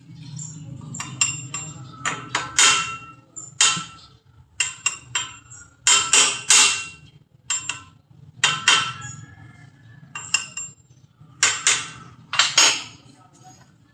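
Hammer blows on metal, about fifteen irregular strikes, each ringing briefly after the hit.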